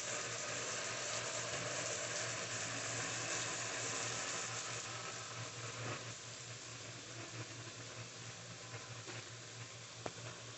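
Okra and spiced masala sizzling in an aluminium pot on the stove, fried dry before any water is added: a steady hiss that grows fainter in the second half, with a few faint clicks.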